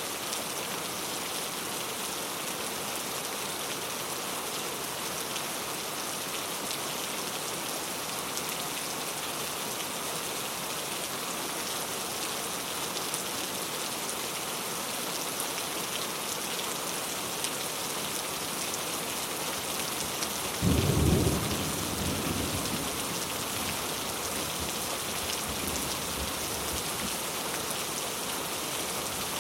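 Steady rain falling, an even hiss. About two-thirds of the way through, a brief loud low rumble swells and fades over a couple of seconds.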